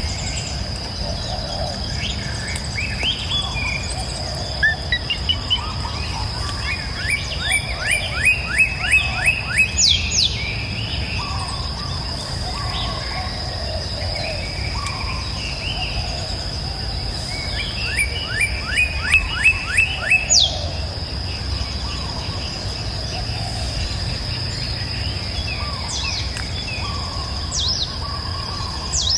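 Wild birds singing in woodland. Twice, a bird delivers a quick run of about eight descending notes that ends in a high downward sweep, among scattered shorter chirps. A steady high-pitched whine and a low rumble run underneath.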